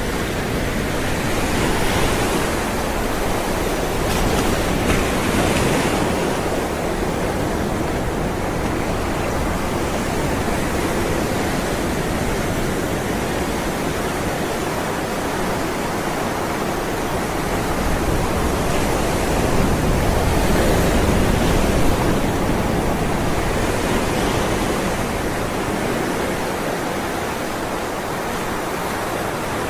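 Ocean surf: waves rolling in and washing over one another with a constant low rumble, the hiss swelling every few seconds as a wave breaks.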